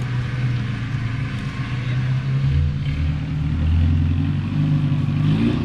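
Off-road 4x4's engine running steadily, with a deeper engine note coming in about two and a half seconds in.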